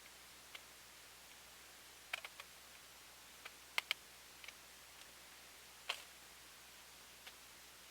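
Faint, irregular clicks and taps, about a dozen, over a steady hiss; the loudest are a quick double click near the middle and a single sharper one near the end.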